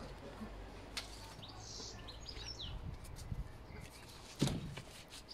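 Small birds chirping, a quick string of high calls about two seconds in, over low background noise. A single sharp knock about four seconds in is the loudest sound.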